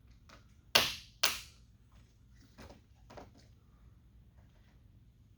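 Plastic trim retaining clips being knocked off a truck door molding: two sharp snaps about half a second apart, then two fainter clicks.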